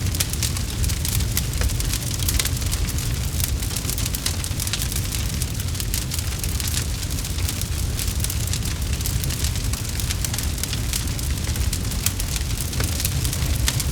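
Campfire burning with a steady low rumble and many small sharp crackles and pops from the burning wood.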